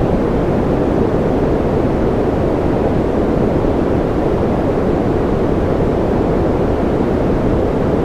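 Steady, unchanging noise track of the white-noise kind, weighted toward the low end so it sounds deep and muffled rather than hissy.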